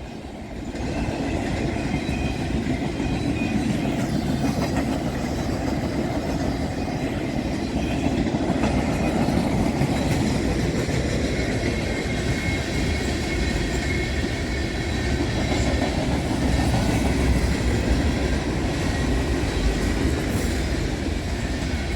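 Norfolk Southern freight train's cars rolling past close by, a steady rumble of steel wheels on the rails.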